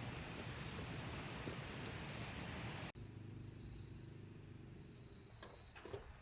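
Insects chirping in rural surroundings: a steady high trill with a lower chirp that pulses on and off, over a background hiss. The sound changes abruptly about three seconds in, and a few faint clicks come near the end.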